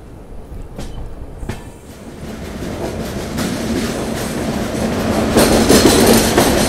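Passenger train running on the track, wheels clacking over rail joints with two sharp clacks in the first two seconds. The running noise grows steadily louder as the train enters a tunnel about four seconds in, loudest near the end.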